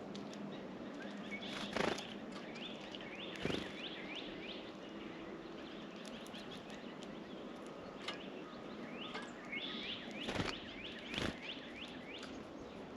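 Small songbirds at a feeder giving runs of short, quick, down-slurred chirps, with a few sharp thumps in between, over steady outdoor hiss.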